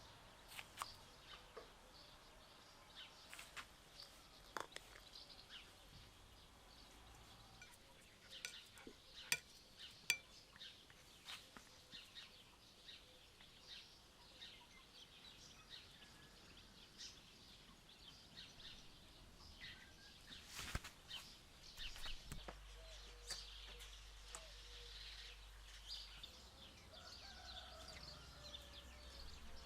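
Faint chirping of birds, with a scattering of sharp clicks and taps, the loudest about nine, ten and twenty seconds in.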